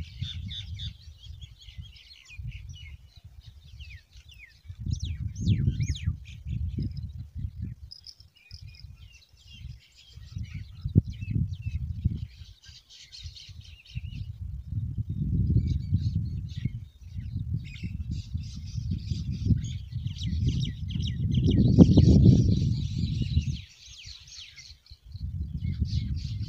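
Small birds chirping on and off throughout, over gusts of wind buffeting the microphone that come and go, strongest a little before the end.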